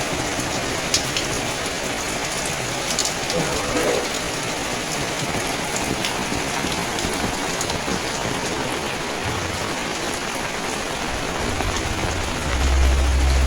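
Steady rain falling on surfaces, with scattered drop ticks. Near the end a low, steady engine hum comes in and is louder than the rain.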